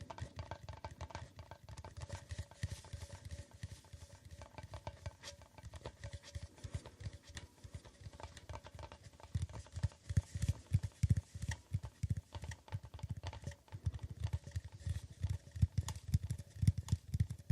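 Rapid, irregular fingertip tapping, many light taps a second, each a short click with a soft low thud; the tapping gets louder about halfway through.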